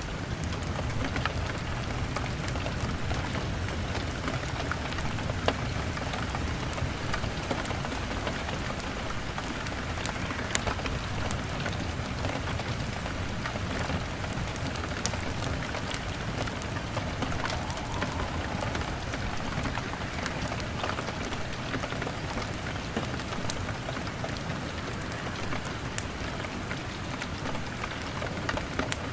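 Steady rain beating on a window pane: a continuous hiss with scattered sharp drop ticks and a low rumble underneath.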